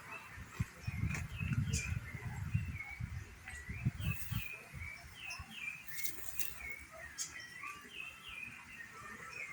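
Small birds chirping, short quick notes repeated over and over, with a low rumble through the first half.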